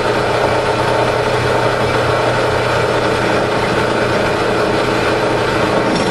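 Benchtop drill press motor and spindle running steadily with no load, a constant even hum.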